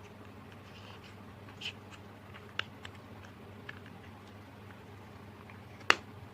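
Slime being worked by hand, giving scattered small clicks and pops, with one sharp, louder pop near the end, over a faint steady hum.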